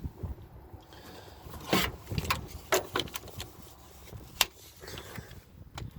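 Scattered sharp clinks and knocks of metal engine parts and hand tools being handled during engine work, about half a dozen separate hits.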